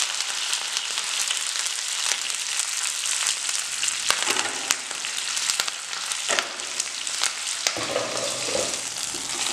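Slit long green chillies frying in hot oil in a non-stick pan: a steady sizzle with frequent sharp pops of spattering oil.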